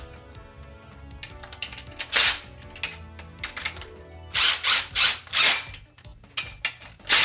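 A ratchet wrench cranked in short, irregular strokes, tightening the bolts on the steel frame of a chainsaw mill. There are quick runs of several strokes about two seconds in and again about four to five and a half seconds in, then one more near the end.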